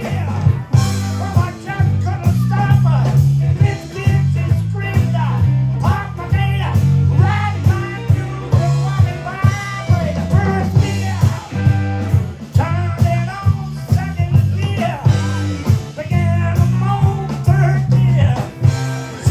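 Live blues band playing an instrumental stretch: a steady walking bass line and drums under a lead guitar line.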